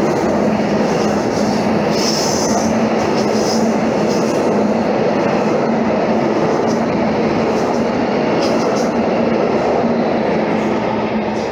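Freight train of tank wagons rolling past close by at speed: a steady rumble of wheels on rail with a constant low drone, and brief high wheel squeals about two and three and a half seconds in.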